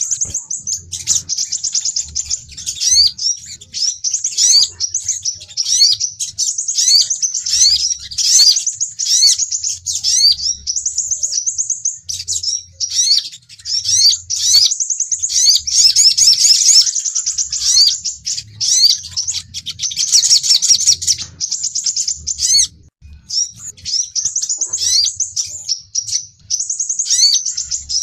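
Sunbird song, a lure recording: fast, high-pitched chirps and quick sliding notes run on almost without a break, pausing briefly a few times, with a faint low hum underneath.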